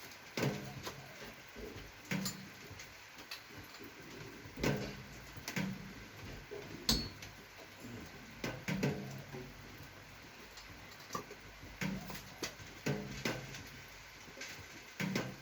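Irregular clicks, clinks and knocks of small hard parts and tools being handled, some with a short low ring.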